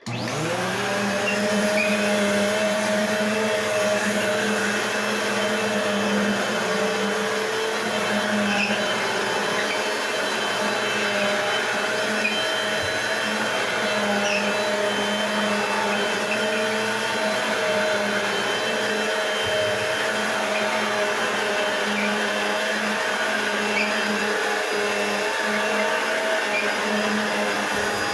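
Eureka Whirlwind bagless vacuum cleaner switched on: the motor spins up with a short rising whine in the first half second, then runs at a steady pitch with a constant rush of air.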